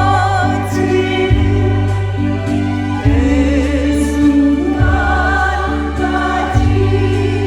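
A group of people singing together in chorus over a musical accompaniment with a steady bass line and sustained keyboard chords.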